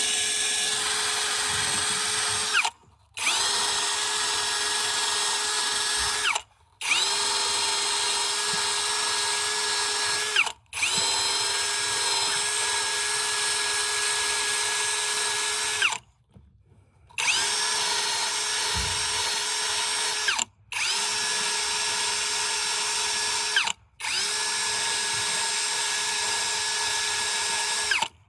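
Power drill running in about seven bursts of a few seconds each. Each burst rises briefly in pitch as it spins up, holds a steady whine, then stops suddenly before the next.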